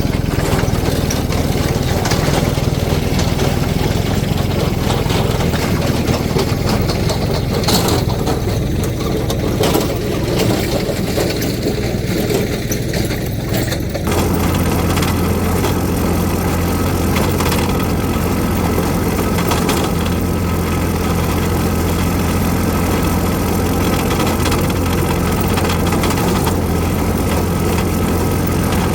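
Tractor engine running steadily as it works the field. Its note changes about halfway through.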